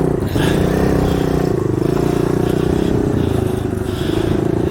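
Dirt bike engine running steadily at low revs, its pitch rising and falling a little.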